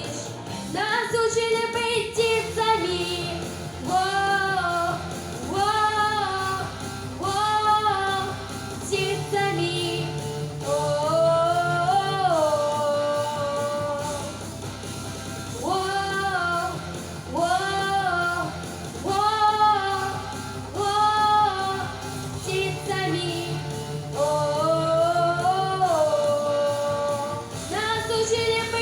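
A girl singing a song over instrumental accompaniment, with long held notes that waver in pitch; the recogniser picked out no words here.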